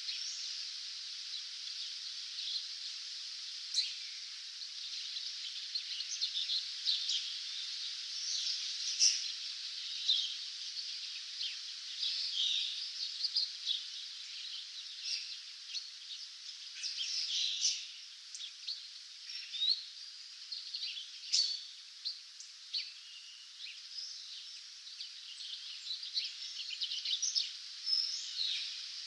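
Several wild birds singing in a dawn chorus: many short chirps and whistled phrases overlapping one another, over a steady high hiss.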